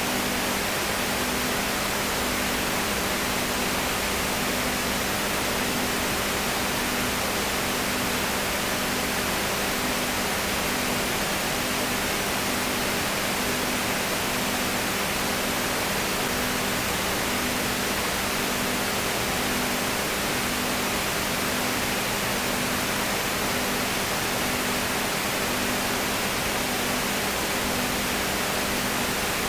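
Steady hiss with a low hum underneath, one part of the hum pulsing about once a second.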